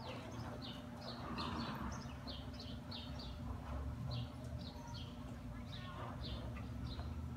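A small bird chirping over and over, short high chirps about two a second, over a steady low hum.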